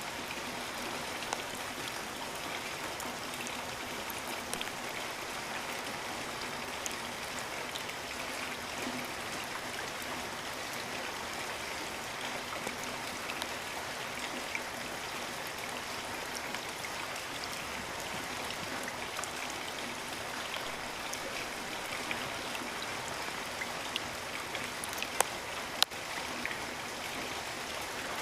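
Steady rain falling, an even hiss with scattered small drops ticking, and two sharper drips a little before the end.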